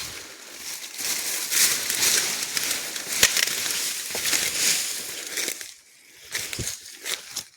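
Leaves and branches of wind-felled trees rustling and crackling as someone pushes and climbs through them. A dense rustle for a few seconds, then scattered snaps and crackles near the end.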